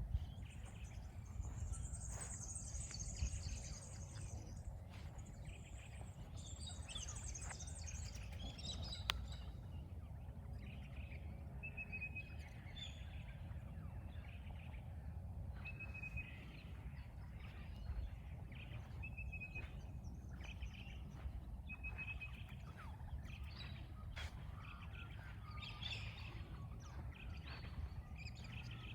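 Various wild birds calling in the morning, with high trills early on and one bird repeating a short high note every few seconds, over a steady low background rumble.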